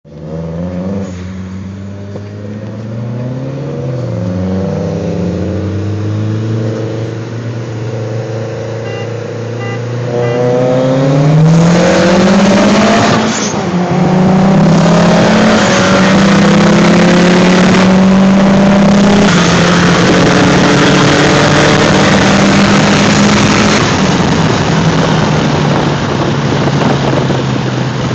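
Turbocharged four-cylinder car engine, heard from inside the cabin, pulling hard under full acceleration in a street race. Its revs climb steeply, drop at a gear change about 13 seconds in, climb again and are then held high, under loud wind and road rush.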